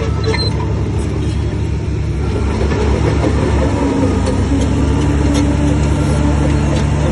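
Heavy diesel engine of earthmoving machinery running steadily, growing a little louder about three seconds in, with faint light clicks over it.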